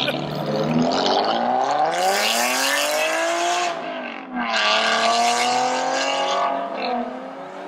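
A car engine revving hard, twice. The pitch climbs for about two and a half seconds and drops back about four seconds in, then climbs again, holds and eases off.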